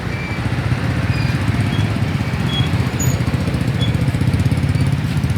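A small engine running steadily close by with a fast, even throb, and faint short high chirps over it.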